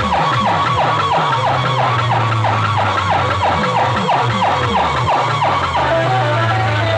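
DJ sound-system loudspeakers playing an electronic siren effect: a quick falling wail repeated about two and a half times a second over a steady deep bass, giving way to music near the end.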